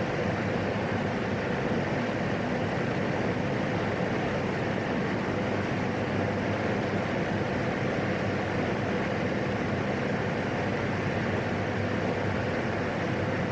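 Single-engine PAC 750XL's turboprop engine and propeller running at high power, a steady, unchanging drone, as the aircraft takes off or climbs out.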